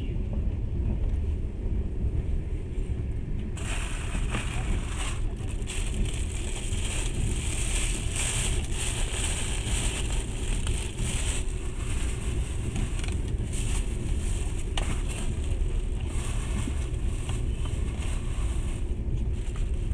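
Passenger train running, heard from inside the carriage: a steady low rumble of the wheels on the rails, with a hiss joining in about four seconds in and easing off near the end.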